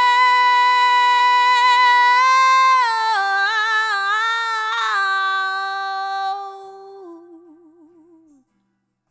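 Unaccompanied female singing voice holding the long final note of a phrase, stepping down through a few pitches and ending in a wavering vibrato that fades out about eight seconds in. The voice is run through a Universal Audio tube compressor plug-in.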